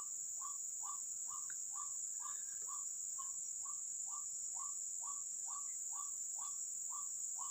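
Steady high-pitched chirring of crickets, with a short call near 1 kHz repeated evenly about three times a second.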